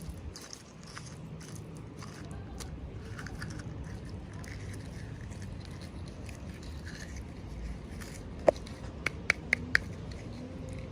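Small plastic packaging and toy pieces being handled: soft scraping and light ticks, then a sharp click about eight and a half seconds in, followed by four quicker ringing clicks.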